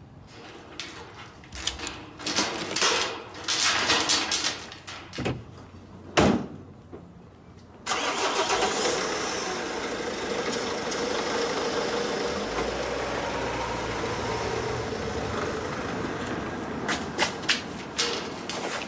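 Clattering and irregular knocks of objects being handled. About eight seconds in, a steady mechanical running noise with a low hum starts abruptly and keeps going, with a few sharp clicks near the end.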